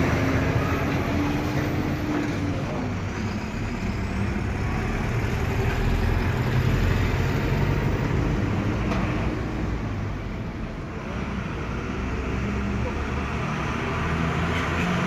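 Steady motor-vehicle rumble of running engines and road noise.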